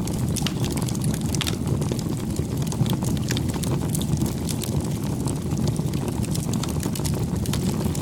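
Wood campfire burning: a steady low rumble with frequent sharp crackles and pops.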